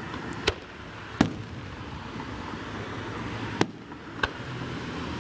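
Aerial firework shells bursting: four sharp bangs spread over about five seconds, the second and third the loudest, over steady background noise.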